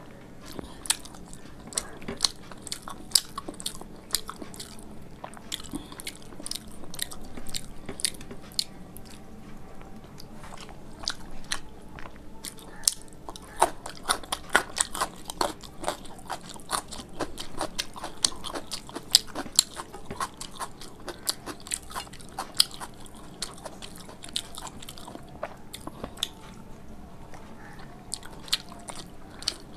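A person chewing and biting food close to the microphone, with many sharp, irregular crunches and wet mouth clicks, thickest about halfway through.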